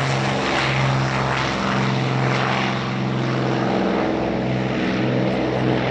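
P-51B Mustang's Packard Merlin V12 engine at takeoff power, a loud steady drone from the engine and propeller.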